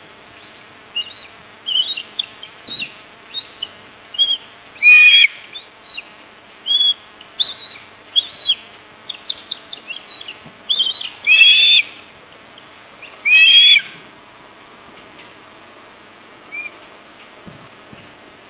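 Birds chirping: a rapid string of short, high chirps with a few louder clusters in the middle, dying away about three-quarters of the way through.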